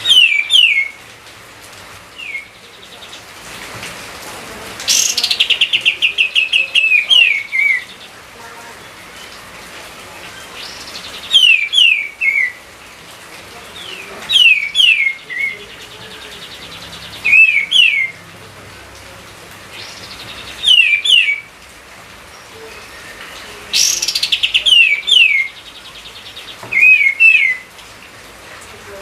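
A songbird singing close to the microphone: short phrases of quick, falling whistled notes repeated every few seconds, twice broken by a fast rattling trill.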